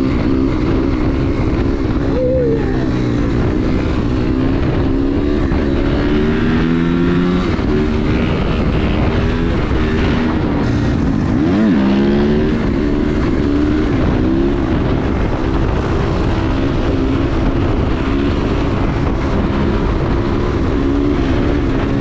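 Dirt bike engine running while being ridden, its pitch stepping up and down with throttle and gear changes.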